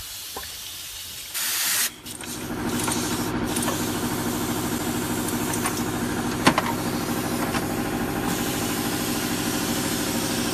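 A short burst of hissing air, then a motor-driven machine starts and runs steadily with a fast, even pulse. A single sharp click about six and a half seconds in.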